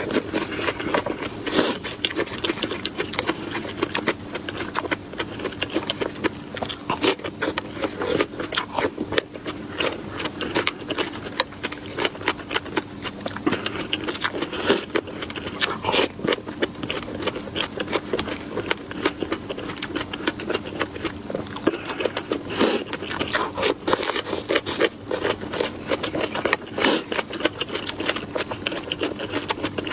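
Close-miked mouth eating sounds: continuous crunching, chewing and wet clicking of food, many small irregular crackles a second. A faint steady hum runs underneath.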